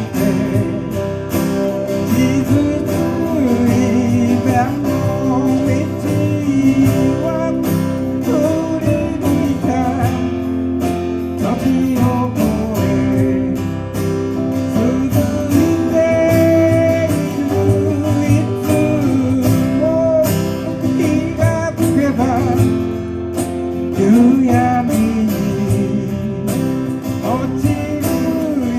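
Live music: strummed acoustic guitar with a melody line over it, playing steadily.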